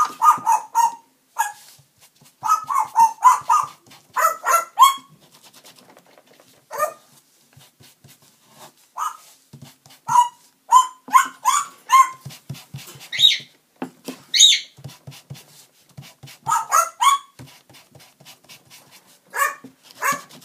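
Pet bird mimicking a dog, giving short bark-like calls over and over in bunches with pauses between, and a couple of higher, shriller calls about two thirds of the way through.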